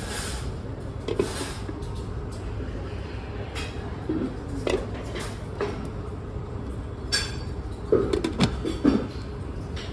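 Steady low rumble of background noise with scattered light clinks and brief faint voice fragments, the loudest cluster about eight to nine seconds in.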